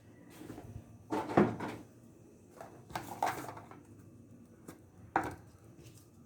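Knocks and clatter of containers and utensils being handled, in three short bursts: about a second in, around three seconds in, and just after five seconds.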